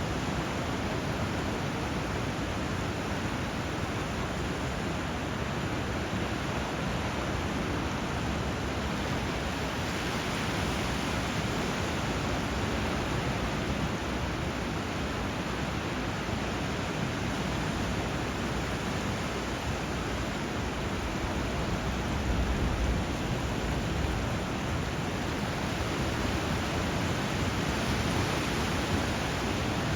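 Steady rushing of flowing water where a river runs into the sea, an even hiss that swells slightly now and then.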